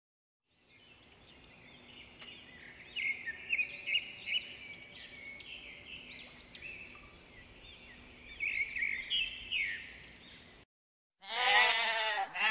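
House sparrows chirping in clusters of short, high repeated notes, then, near the end, a lamb bleating loudly.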